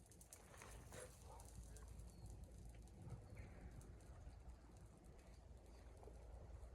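Near silence: faint scattered clicks and taps over a low, steady rumble.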